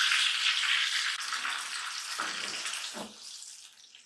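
Loud sizzling of yogurt-marinated chicken going into hot oil and whole spices in a karahi, the sizzle dying down steadily over a few seconds. A couple of soft thumps come in the second half.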